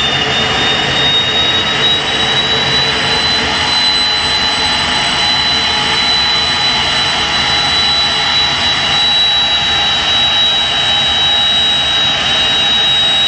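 Old gas turbine engine running steadily: a loud rushing roar with a high whine on top, the whine edging up in pitch over the first few seconds and then holding.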